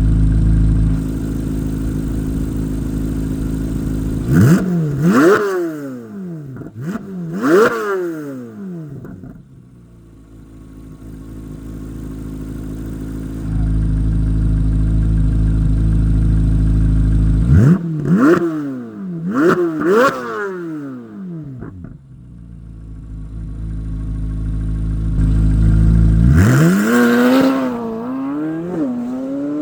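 The 2024 Corvette C8 Z06's 5.5-litre flat-plane-crank V8 on its stock exhaust, running at a steady drone while cruising. It revs sharply up and straight back down twice about four seconds in and twice more around eighteen seconds. Near the end it pulls up through the revs with a brief dip in pitch.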